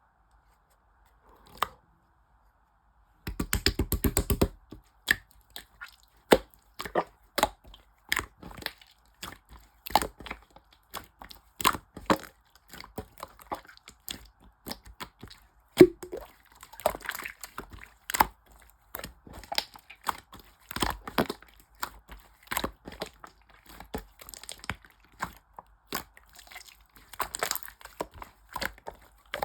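Irregular sharp crackles and crunches that go on and off, with a short fast rattle about three seconds in.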